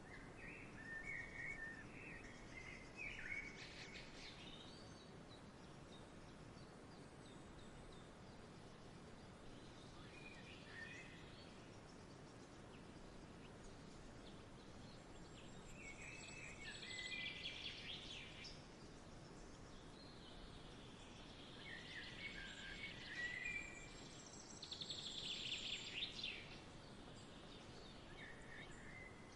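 Faint outdoor nature ambience: a steady soft hiss with birds chirping in short scattered phrases, and a few brief louder hissing swells in the second half.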